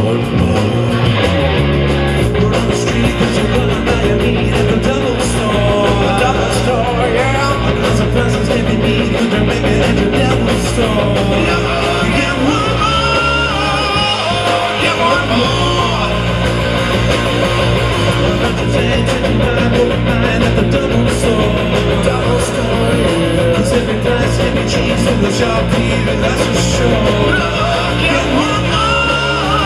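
Live rock band playing a song, with electric guitar, drums and singing. The music is loud and unbroken.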